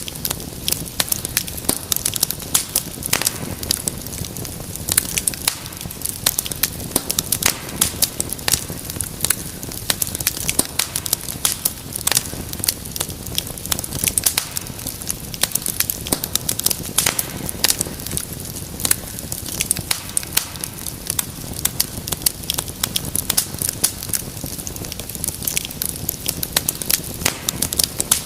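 Wood fire burning in a fireplace, crackling and popping with many small sharp snaps over a low, steady rush of flame.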